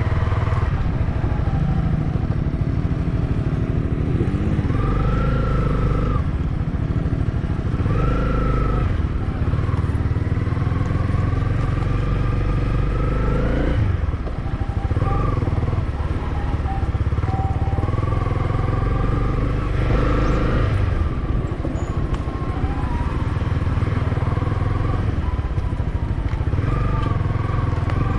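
Motorcycle engine under changing throttle on an off-road track, its pitch rising and falling again and again, over a heavy low rumble. The engine note drops briefly about halfway through.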